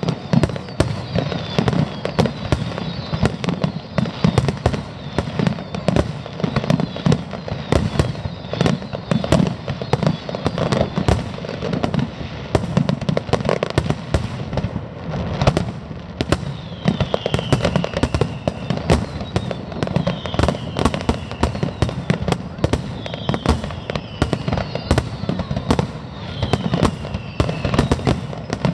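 Aerial fireworks display: a rapid, unbroken barrage of shell bursts and crackling, with a falling whistle heard again and again in the second half.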